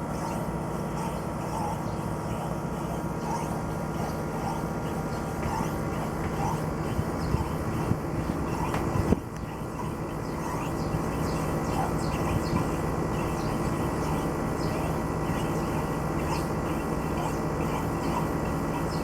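Air conditioner outdoor unit running with a steady hum and an abnormal noise: short high squeaky blips recurring every second or so over the hum. There is one sharp knock about halfway through.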